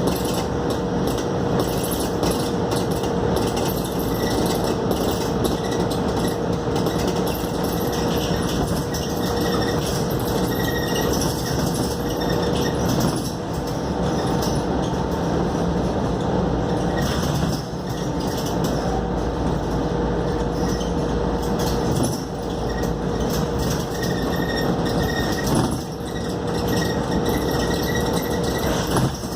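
Inside a Scania K280UD double-decker bus on the move: a steady rumble of engine and road noise with a constant whine, dipping briefly in level a few times.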